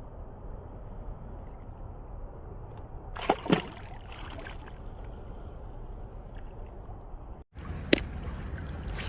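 River water sloshing steadily, with two quick splashes about three and a half seconds in as a released fish goes back into the water, and another sharp splash near the end.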